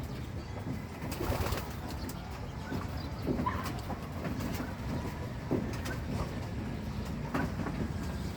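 Birds calling now and then over a steady low outdoor rumble, with a short clear call about three and a half seconds in.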